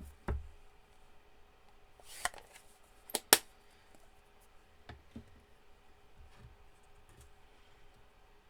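Scattered taps and clicks of paper craft pieces and tools being handled on a desk. The sharpest click comes a little over three seconds in, then a couple of lighter taps follow.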